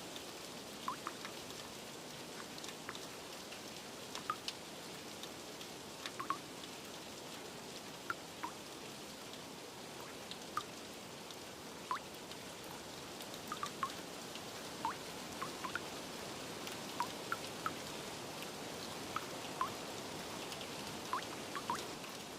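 Steady rain hiss with single drops and drips landing at irregular intervals, some with a short falling plink.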